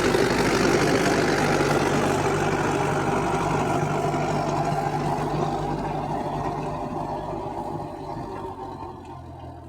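Mahindra 575 DI 45 hp diesel tractor running steadily with an 8-foot Maschio rotavator behind it, the engine hum and tiller noise fading away over the last few seconds as it moves off.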